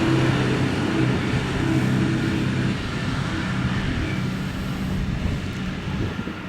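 Heavy diesel engine of quarry machinery running with a steady pitch, growing gradually quieter.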